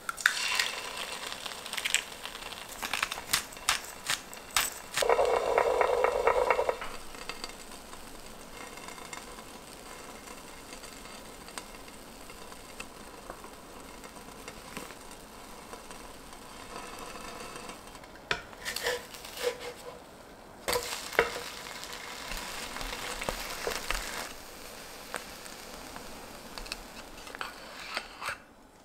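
Egg and toast frying in a ridged grill pan, a steady sizzle through the middle of the stretch. Utensil clicks and knocks come at the start, with a louder two-second sound about five seconds in, and a wooden spatula scrapes and presses on the toast later on.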